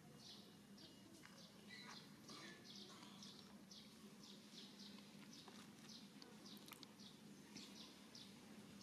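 Faint outdoor ambience with a small bird chirping over and over, about two or three short chirps a second, over a faint steady low hum.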